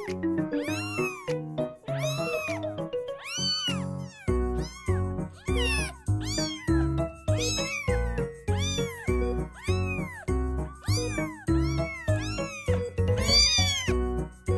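A kitten meowing over and over, about one meow a second, each call rising and then falling in pitch. Background music runs under it, its bass line coming in about four seconds in.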